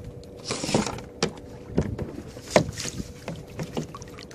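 Water splashing and a series of sharp knocks against a plastic kayak hull, the loudest about two and a half seconds in, as a large shark is brought alongside.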